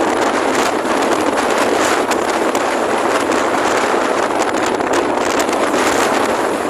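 Strong wind rushing over the microphone, a loud, steady hiss with no clear engine note.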